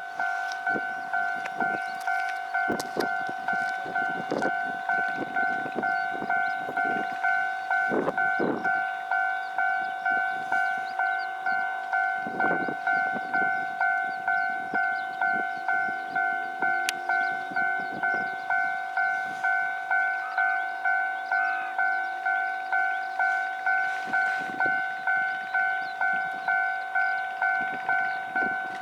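Japanese railway level-crossing warning bell ringing steadily, an even two-tone ding repeating just under twice a second: the signal that a train is approaching.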